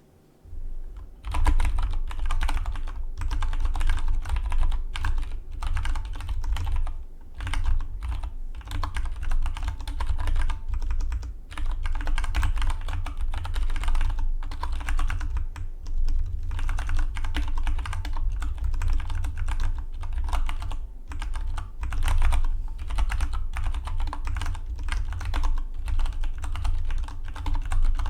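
Fast, continuous typing on a Dygma Defy split mechanical keyboard: a dense run of keystrokes that begins about a second in, with a few brief pauses between bursts.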